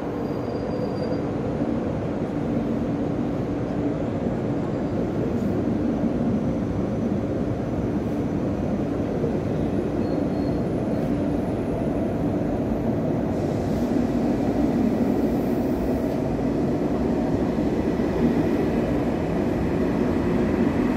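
KTX high-speed train rolling slowly in alongside the platform as it arrives: a steady rumble of wheels and running gear with a low hum, getting a little louder after the middle.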